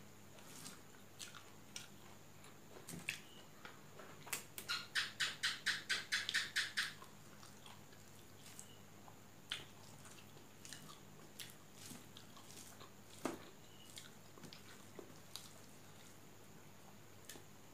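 Close-miked eating sounds of a person chewing a meal of rice eaten by hand: scattered soft mouth clicks and smacks. A few seconds in comes a quick run of about a dozen sharp clicks, the loudest part.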